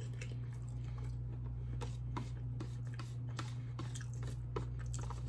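Close-up chewing of a mouthful of shrimp alfredo pasta: a run of soft, wet mouth clicks and smacks, over a steady low hum.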